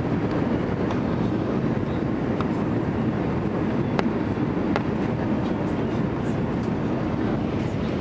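Steady low rumble of engine and airflow noise inside an Airbus A320's cabin in flight, with a couple of sharp clicks near the middle.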